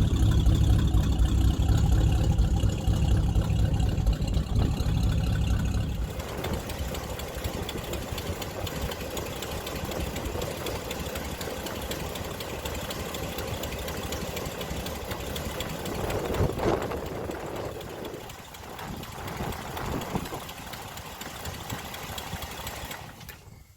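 1969 Buick Riviera's 430 V8 idling with a steady rumble. About six seconds in, the sound suddenly drops quieter and thinner, and it keeps running at the lower level.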